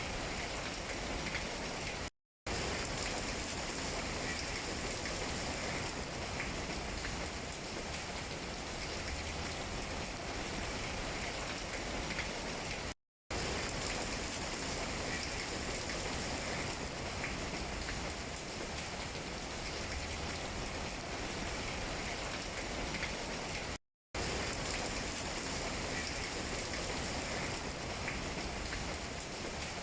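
Steady rain falling on tree leaves: a dense, even patter with small separate drop ticks. The sound cuts out to silence briefly three times.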